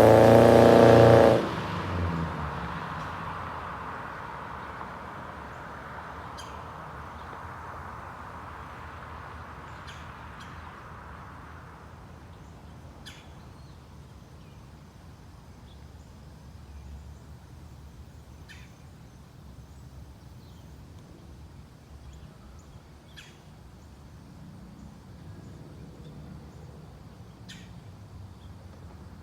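A 2018 Subaru Forester's 2.5-litre flat-four with aftermarket headers and a muffler delete, loud under acceleration for about the first second. Its sound then drops suddenly and fades away over the next ten seconds or so. After that there is only a quiet background with scattered bird chirps.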